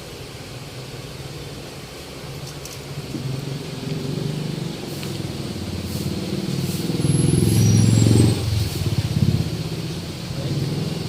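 Deep bass from 18-inch subwoofers playing music under test, a low steady throb that builds louder toward the end, with faint high ticks over it.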